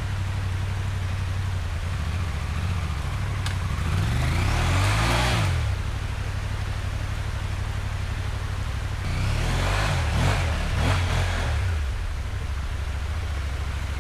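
Adventure motorcycle engine running near idle and revved up twice under load, about four seconds in and again from about nine to twelve seconds in, as the bike is ridden up a steep, loamy dirt slope.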